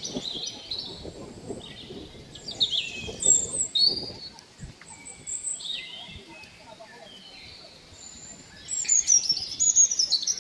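Wild birds singing and chirping in the forest, several short phrases of quick falling notes. A louder run of descending notes comes near the end.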